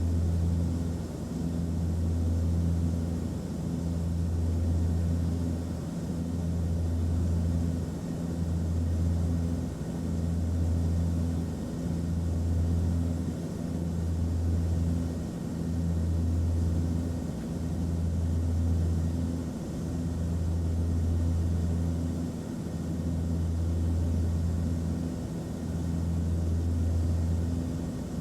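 Airplane cabin noise in flight: a steady low drone and rumble of the engines and airflow, with a low hum that swells and dips about every two seconds.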